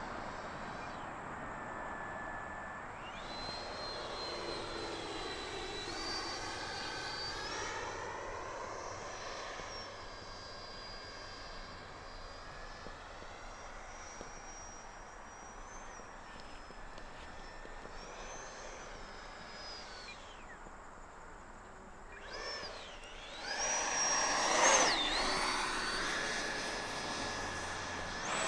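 Electric ducted fan whine of an FMS Rafale RC jet in flight, its pitch rising and falling as it manoeuvres. About 23 seconds in it comes past louder, the whine swooping and then falling in pitch as it goes by.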